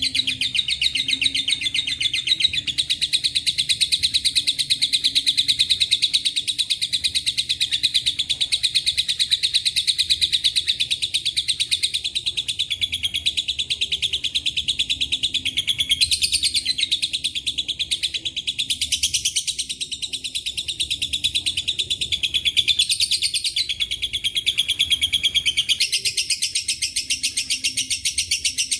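Lovebird giving a long ngekek: a continuous, rapid chattering run of high chirps with no pause. The phrasing shifts a few times around the middle and again near the end.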